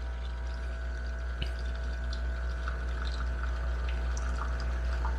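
De'Longhi La Specialista espresso machine pulling a shot: its pump hums steadily while espresso trickles from the portafilter into the cup.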